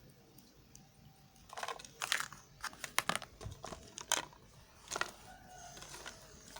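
Soft white soap being cut with a knife: a run of crisp crackling clicks and short scrapes starting about a second and a half in, easing off after about five seconds.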